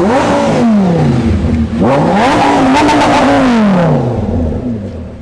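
Lamborghini V12 engine revved twice while standing: a short rev, then a longer one held for about two seconds before falling back toward idle. By ear it is not a good V12 sound.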